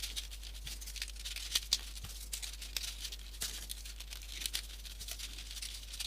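Folded printer-paper origami pieces rustling and clicking as they are fitted and pushed into place on a modular 3D origami model: a scatter of light, crinkly ticks.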